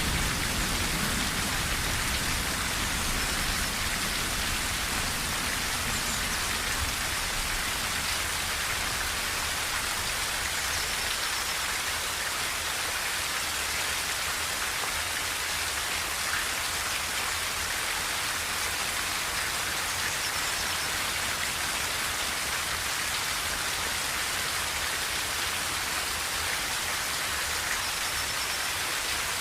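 Steady heavy rain on a tin roof, a dense even hiss of drops. A low rumble of thunder dies away in the first couple of seconds.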